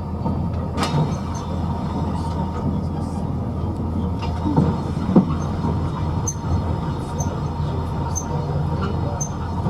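Railway train running along the track: a steady low rumble with light clicks and knocks, a sharp knock near the start and a louder one about five seconds in.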